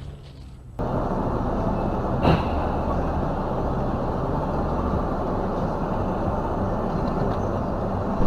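Steady vehicle running noise, low and even, starting abruptly about a second in after a quieter moment. A single sharp click comes a little over a second later.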